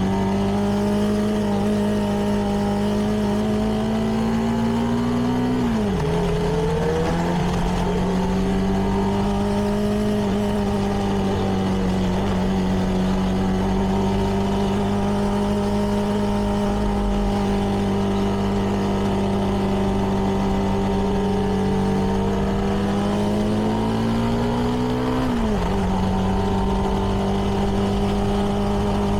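CFMoto 300NK's single-cylinder engine through its stock exhaust, riding under way. The revs climb and then drop sharply with an upshift about six seconds in, hold steady at cruise, then climb and drop again with another shift about twenty-five seconds in.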